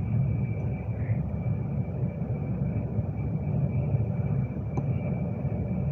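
Steady running rumble of a Class 390 Pendolino electric train heard from inside the carriage at speed, with a faint high whine held throughout.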